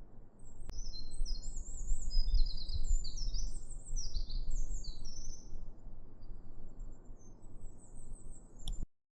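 A small songbird singing a long, fast run of high, sweeping notes over a steady low rumble. The sound cuts off suddenly near the end.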